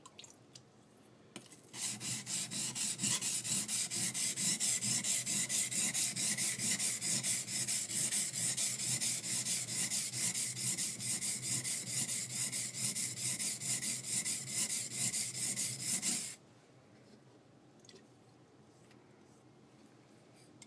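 High-speed-steel skiving knife blade rubbed rapidly back and forth on a wet whetstone, about four scraping strokes a second, grinding the blade to get it flat. The rubbing starts a couple of seconds in and stops abruptly a few seconds before the end.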